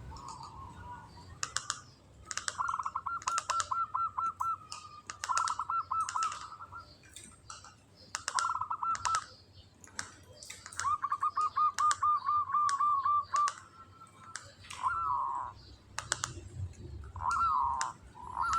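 Zebra dove (perkutut) singing its fast, even trill: bursts of about a dozen quick notes, several times over, mixed with sharp clicks, and a few falling coos near the end.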